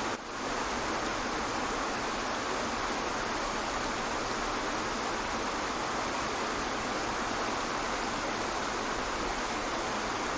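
Waterfall: a steady, even rush of falling water that dips briefly in level just after the start.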